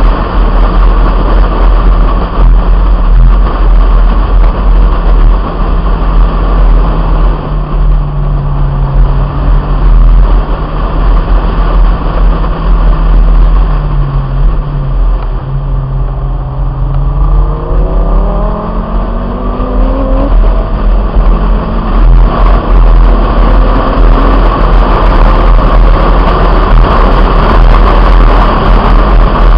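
Heavy wind rushing over a roof-mounted camera on a 1997 Honda Integra, with the car's four-cylinder engine under it. Midway the revs fall as the car slows for a corner, then climb steadily for a few seconds and drop back.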